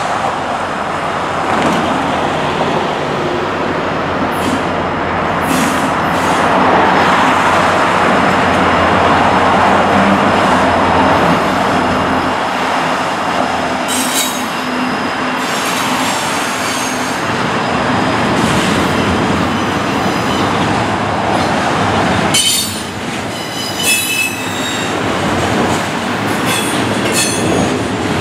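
Norfolk Southern freight train passing close by: the diesel locomotives' engines drone loudly, then, about two-thirds through, the rumble drops as double-stack container well cars roll past with high thin wheel squeal and clicking over the rails.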